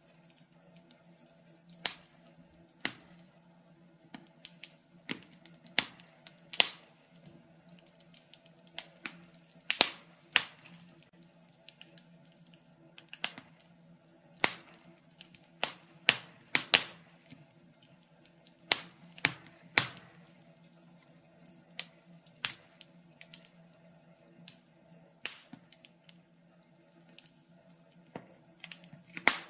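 Wood fire in a fireplace crackling, with irregular sharp pops and snaps, some bunched close together and others spaced a second or more apart.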